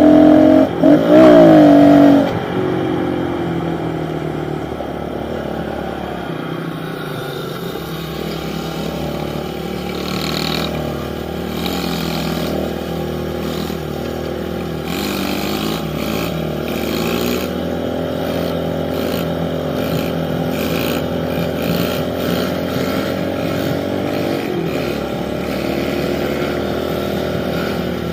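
Pit bike engine revving hard for the first couple of seconds, its pitch wavering quickly; this is the loudest part. It then runs steadily under way, with the pitch drifting up and down with the throttle.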